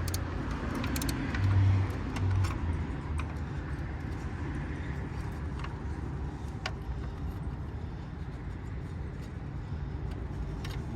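Low steady vehicle rumble with scattered light clicks, and a few heavier thumps about one and a half to two and a half seconds in.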